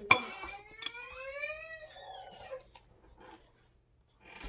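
A dog whining: one long whine that rises and then falls in pitch over about two seconds, after a sharp click at the start.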